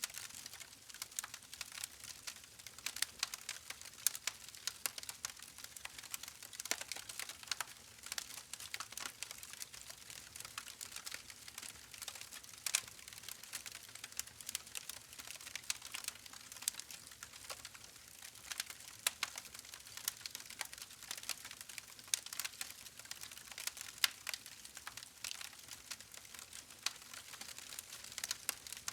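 Campfire burning: wood crackling with frequent sharp, irregular pops and snaps over a soft steady hiss.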